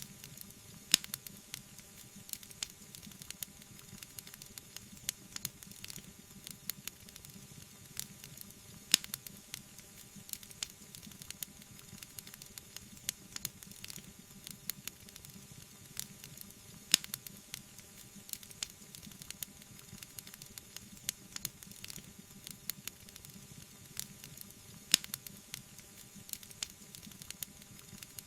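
Wood fire crackling in a fireplace: a steady low hiss full of small quick snaps, with a louder pop about every eight seconds.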